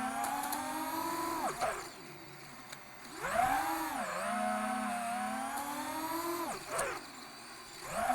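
FPV quadcopter's brushless motors (Emax Eco II 2306, 1900kv) whining, the pitch rising and falling with throttle. Twice the throttle is chopped and the whine dies away, then it is punched back up. The owner suspects one motor is stumbling, perhaps from ESC desync.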